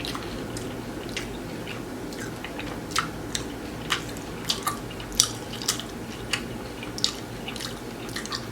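Close-miked chewing of a crunchy hard-shell taco: irregular wet crunches and mouth clicks, a few every second.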